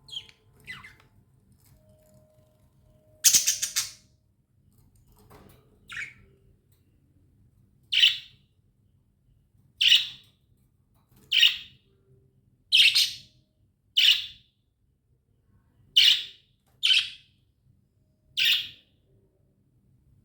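Pet budgerigar calling: a loud, harsh squawk about three seconds in, then a string of short, sharp chirps, one every second or two.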